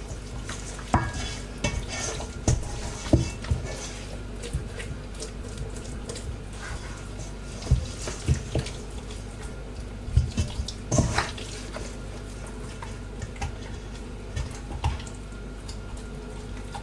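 Bare hands rubbing a wet seasoning paste into a raw whole chicken: irregular wet squelches and slaps over a steady low hum.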